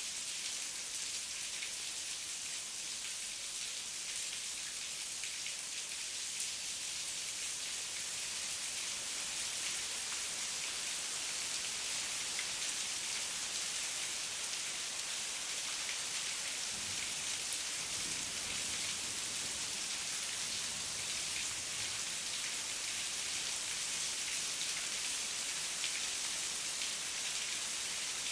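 Heavy rain falling steadily: a dense, even hiss of many drops, with scattered sharper drop ticks. A faint low rumble comes in a little past the middle.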